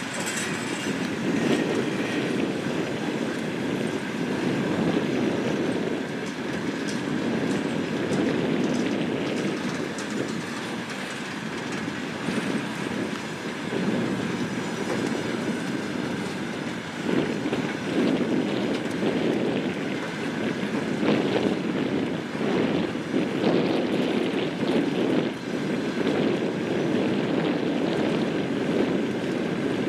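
A diesel train rolling along the track with a steady rumble, and wheels clattering over the rail joints more distinctly in the second half.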